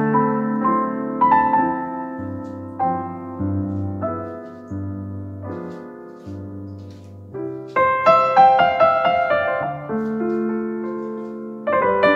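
Background piano music: slow, gentle phrases of struck notes that ring and fade, with a louder group of notes about eight seconds in.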